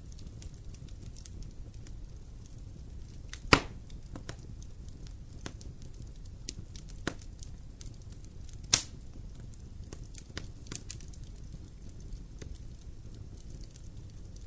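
Wood fire crackling in a fireplace: a steady low rumble with scattered small crackles and a few sharp pops, the loudest about three and a half seconds in and another just before nine seconds.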